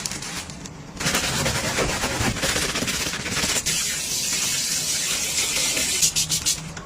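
A steady hiss that starts about a second in and grows fainter partway through.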